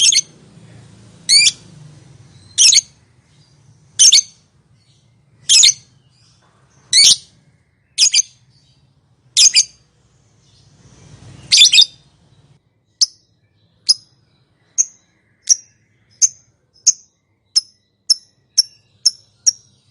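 Lovebird calling: loud, shrill single calls about every second and a half, then from about twelve seconds in, short sharp chirps that speed up to about three a second.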